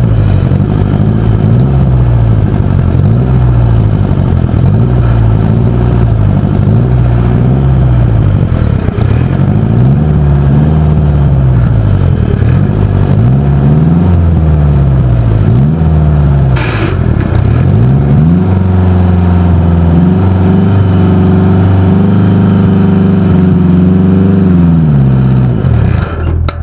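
Pulling tractor's air-cooled engine running loud, revved up and down repeatedly, then held at a steady higher speed for several seconds before dropping back near the end.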